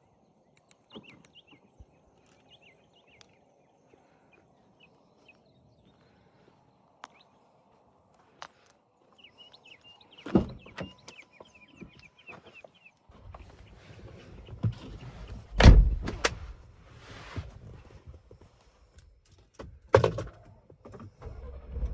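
Doors of a 2026 Ford Bronco Badlands shutting with heavy thunks, along with smaller clicks and knocks. About 13 seconds in, a low steady engine rumble starts and keeps running.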